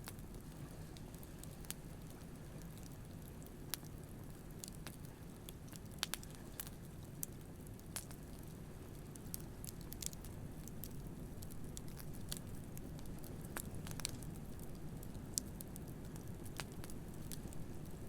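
Wood campfire crackling with irregular sharp pops, over a low, steady wash of ocean surf.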